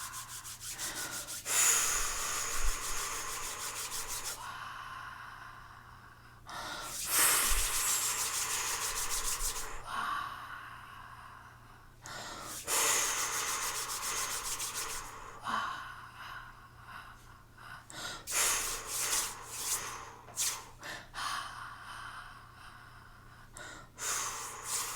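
A woman's wordless, breathy vocal improvisation. Three long whooshing exhales of two to three seconds each are followed, in the second half, by a string of quick, short breathy puffs.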